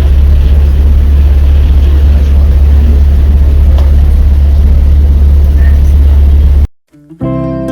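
Boat's engine running with a loud, steady low drone and a rushing wind and water noise over it. It cuts off suddenly about a second before the end, and plucked guitar music starts right after.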